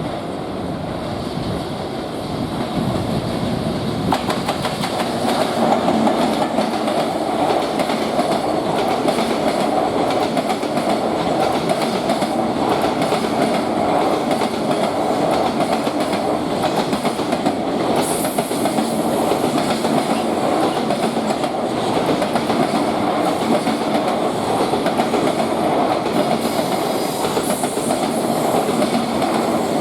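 Freight train hauled by an EF210 electric locomotive passing, its wheels clattering rhythmically over the rail joints. The sound builds over the first few seconds and then stays steady and loud, with brief high-pitched wheel squeal twice in the later part.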